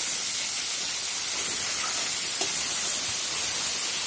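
Parboiled cauliflower florets frying in hot oil in a kadai over a high flame: a steady sizzling hiss.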